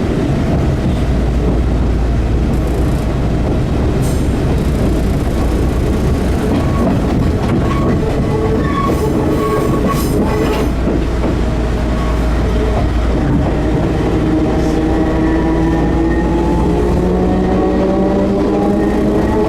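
Enshu Railway 30-series electric train running, heard from inside the car: wheels rumbling on the rails, with a brief steady squeal near the middle. About three-quarters of the way in, the traction motors start a whine that rises steadily in pitch as the train picks up speed.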